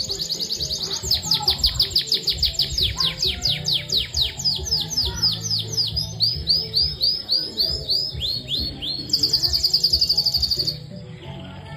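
Domestic canary singing: quick series of repeated high, falling notes, each phrase held for a second or two before switching to another, then a fast trill about nine seconds in that stops shortly before the end. Background music plays underneath.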